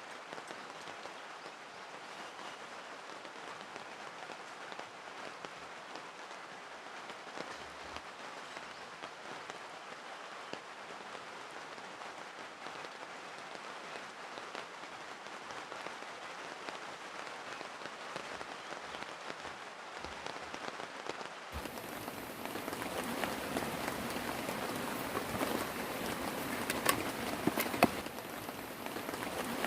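Steady rain falling and pattering on a surface. About two-thirds of the way in it cuts abruptly to louder, closer rain, with a couple of sharp taps near the end.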